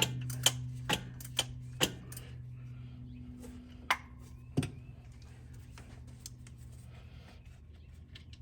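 Irregular sharp clicks and knocks: four in the first two seconds, then two more around four and a half seconds in, over a steady low hum.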